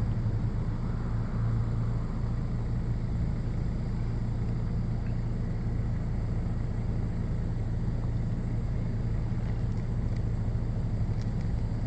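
A vehicle engine running steadily at idle, a low even hum that does not change.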